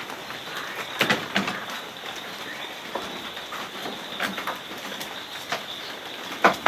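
Steady rain hiss with several sharp knocks and clicks scattered through it, the loudest a little after the first second and just before the end.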